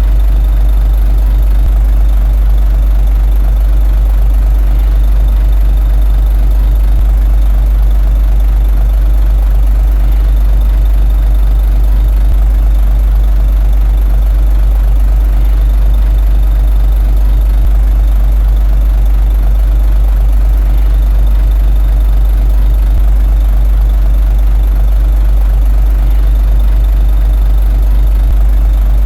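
Komatsu D21A bulldozer's diesel engine running steadily with a deep, even rumble.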